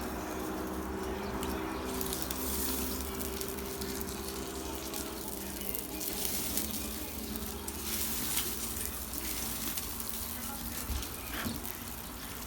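Meat sizzling and crackling on a barbecue grill as the fire flares up under the fat. A steady low hum runs underneath and fades about five seconds in.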